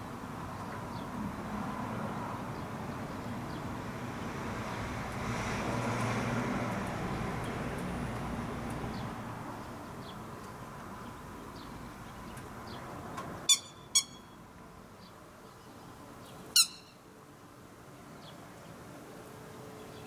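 A steady rumble, like a passing vehicle, swells and fades in the first half. Near the middle come sharp bird calls, two about half a second apart and a third a couple of seconds later, over faint scattered chirps.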